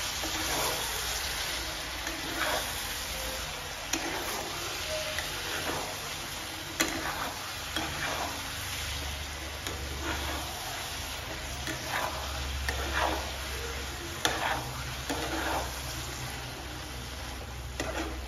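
Chicken, onions and masala sizzling in a frying pan while a spatula stirs them, with repeated short scrapes of the spatula against the pan about every second or so.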